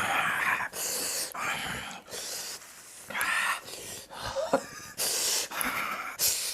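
A person breathing hard through an open mouth, a run of short hissing gasps about one a second, from the chilli burn of a very hot pepper chip.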